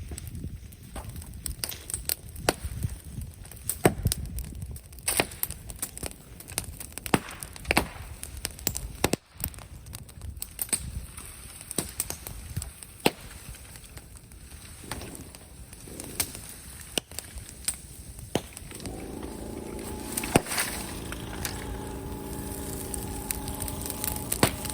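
Brushwood and bamboo bonfire crackling, with sharp irregular pops and snaps over a low rumble. Near the end a steady humming tone with several pitches comes in under the crackle.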